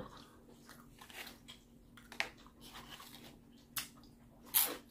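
Close-miked mouth sounds of a person chewing a mouthful of food: soft wet smacks and clicks a second or so apart, the loudest near the end, over a faint steady hum.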